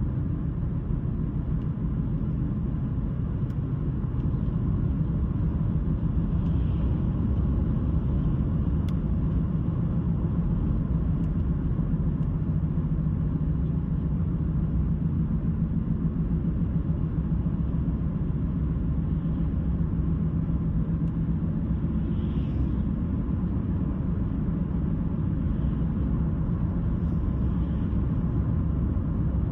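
Car driving along at road speed: a steady low rumble of tyres and engine.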